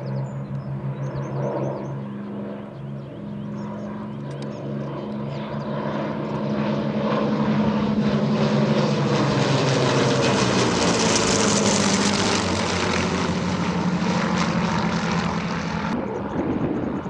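Propeller-driven military aircraft flying past: a steady engine drone that grows louder to a peak about two-thirds of the way through, with its pitch bending as it passes, then easing off.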